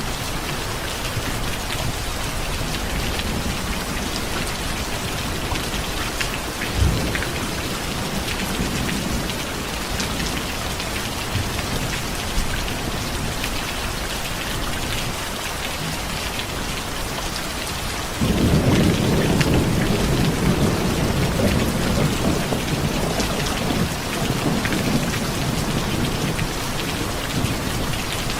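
Steady rain pattering, with thunder: a short low thump about seven seconds in, then a long low rumble of thunder that sets in suddenly about two-thirds of the way through and keeps rolling.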